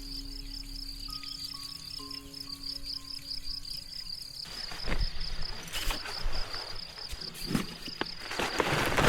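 Crickets chirping in a fast, even, high pulse, with soft held music notes underneath for the first half. About halfway through the music stops and a louder rustling, crackling noise with sharp clicks joins the chirping.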